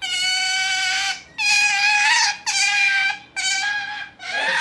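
Pet otter calling: four long, high-pitched whining squeals in a row, each about a second long with short breaks between, then a wavering, bending call starting near the end.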